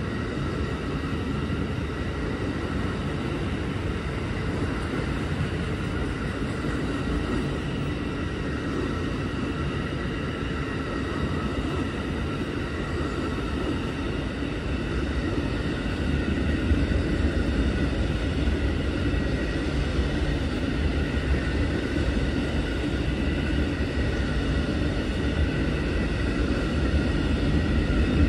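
Train rolling past: a steady rumble with a thin, steady whine above it, growing louder about sixteen seconds in.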